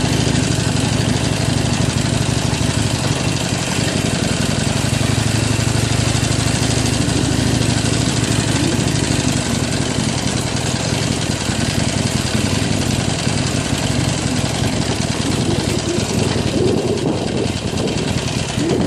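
Harley-Davidson Iron 883's air-cooled V-twin engine running steadily at low revs under way, with a constant rush of wind and track noise.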